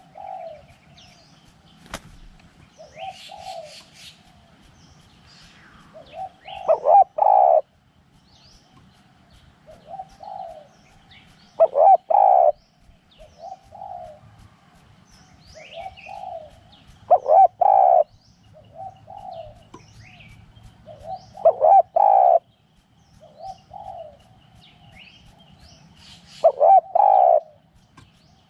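Spotted dove cooing: a loud phrase of several quick coos repeats about every five seconds, with softer single coos between the phrases. Other small birds chirp faintly.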